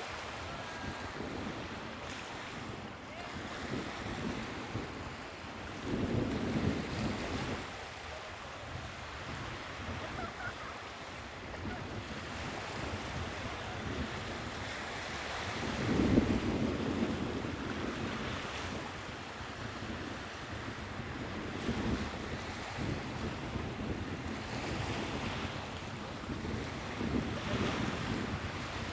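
Sea waves washing in, with wind buffeting the microphone. The surf swells in surges, a big one about six seconds in and the loudest around sixteen seconds, with smaller ones later.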